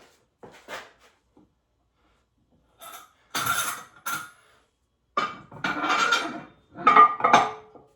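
Metal gym weights clanking and rattling as they are handled, in several bursts, the loudest near the end.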